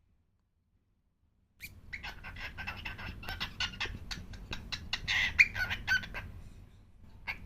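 Pet cockatiel chattering in a rapid run of short chirps and clicks, starting about a second and a half in and trailing off near the end.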